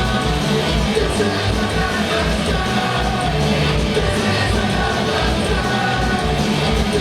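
Punk band playing live with vocals, drums pounding out a steady fast beat under the full band.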